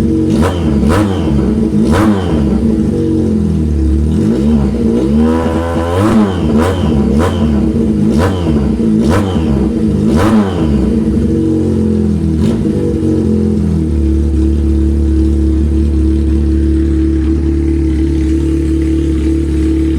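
Factory F370's engine being revved over and over, its note climbing and falling with sharp cracks between blips. About fourteen seconds in it settles to a steady idle.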